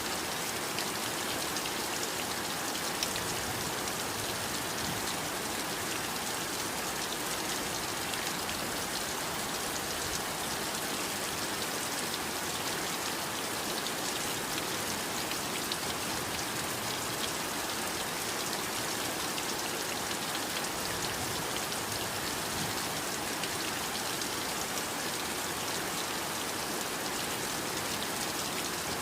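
Steady heavy rain falling, an even hiss with dense fine drop patter.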